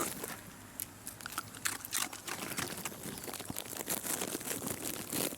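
A Shiba Inu crunching and chewing a hard treat, with irregular crisp crunches throughout.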